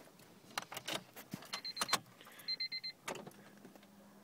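Keys clicking in the ignition of a 1999 Honda Civic, with two quick runs of four high electronic beeps. About three seconds in, a steady low hum starts: the fuel pump engaging as the key is turned on.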